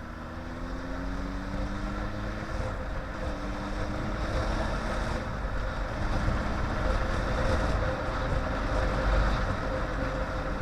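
Yamaha inline-four sportbike engine running under way, its note rising slowly, then breaking and picking up again about three seconds in, under steady wind rush on the helmet microphone that grows louder as the bike gathers speed.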